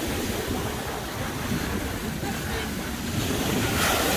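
Sea waves washing onto a sandy beach, with wind buffeting the microphone; the surf swells a little louder near the end.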